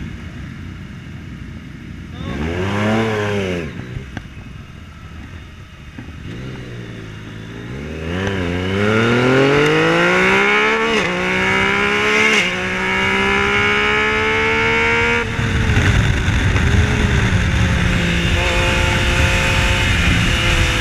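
Yamaha Tracer 900's 847 cc inline three-cylinder engine revved once briefly, then accelerating hard with a rising pitch through three upshifts, each a sudden drop in pitch, before settling to steadier running in a higher gear.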